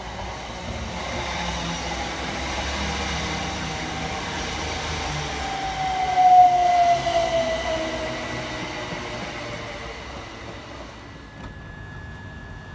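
A train passing by: its running noise builds to a peak about six seconds in, where a single whining tone falls in pitch, then fades away. Near the end it gives way abruptly to a steady hum.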